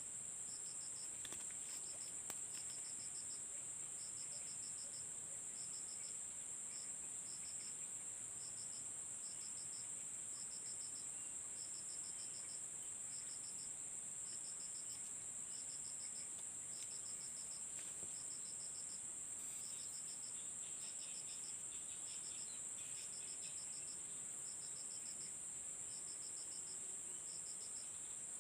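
Insects singing: a steady high-pitched drone with a cricket chirping in short trains of rapid pulses, about once a second.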